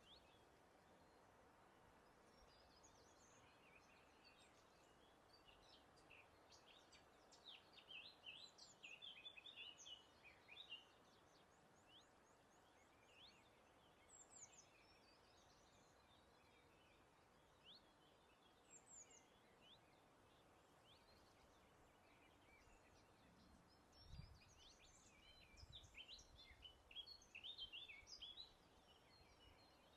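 Faint birdsong from several birds: scattered high chirps and trills, rising into two busy spells of rapid twittering, over a steady soft background hiss of breeze.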